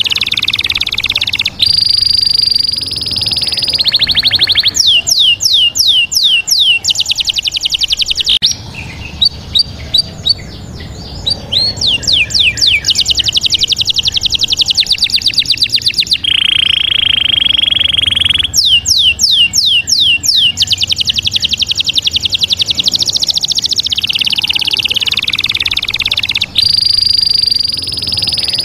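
Loud, rapid trains of high bird-like chirps and sweeping whistles. The pattern switches abruptly every few seconds, and the same patterns come back again.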